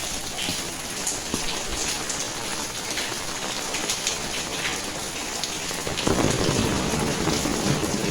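Rain falling steadily, with many separate drop hits, growing fuller and louder about six seconds in.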